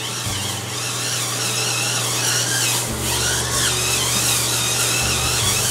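Hurricane Spin Scrubber's small battery-powered motor whirring as its spinning brush head scrubs bathtub tiles and grout, with a pitch that wavers as it is pressed against the surface.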